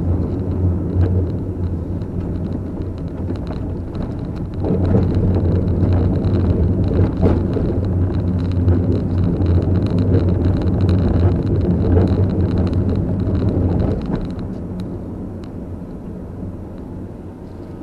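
Car driving, a steady low rumble of engine and road noise. It grows louder a few seconds in and eases off near the end.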